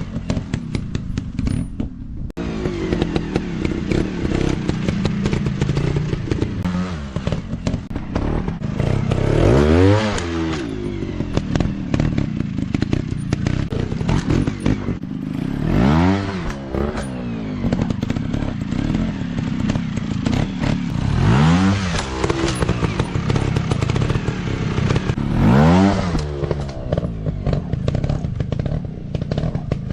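Dirt bike engine running at low revs and revved up and back down four times, about every five or six seconds, with some clatter.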